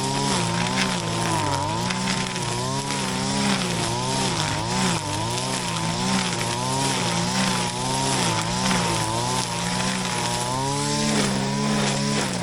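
Shindaiwa RK3026-PT 25.4cc two-stroke brush cutter running at high revs, its engine note dipping and recovering again and again as the blade takes load cutting grass, then holding steadier near the end.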